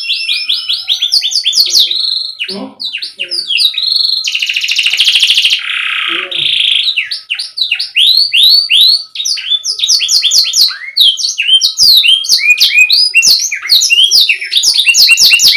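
Domestic canary singing a long, unbroken song: fast trills of repeated downward-sweeping notes alternating with buzzy rolls.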